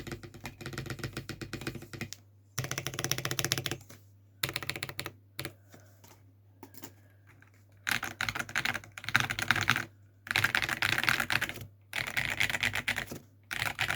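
Typing on a new mechanical keyboard: rapid runs of key clicks in bursts of one to two seconds separated by short pauses, softer for a couple of seconds in the middle. A steady low hum sits underneath.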